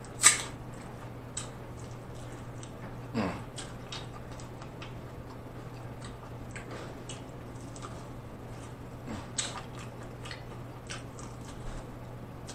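Close-miked eating of corn on the cob: biting into the kernels and chewing, with many short wet mouth clicks and smacks. The loudest smack comes right at the start, and a faint steady low hum runs underneath.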